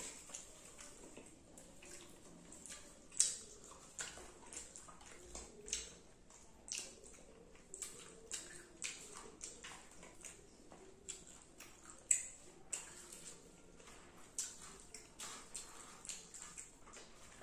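Close wet chewing and lip smacks from someone eating rice and fish curry: a string of short, irregular smacking clicks, the loudest about three seconds in and again about twelve seconds in.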